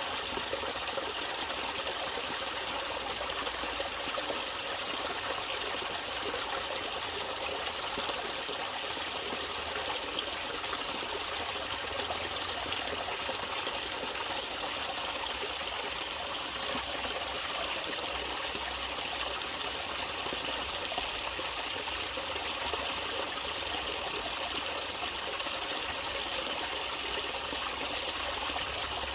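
Natural running water, a stream flowing with a steady trickling rush.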